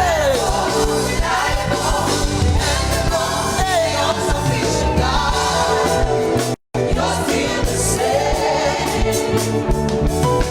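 Gospel song with sung vocals over band accompaniment. The sound cuts out completely for a split second about six and a half seconds in.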